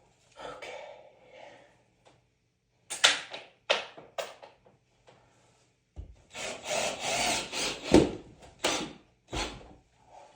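Hand work on wood or wall material: several rough sawing or rasping strokes, irregular and stop-start, with two sharp knocks near the end.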